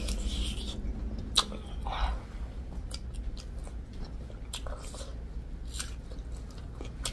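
Chewing and biting into a spicy sauced pork rib: wet mouth sounds with scattered short clicks, then a bite into a whole dalle chili pepper near the end.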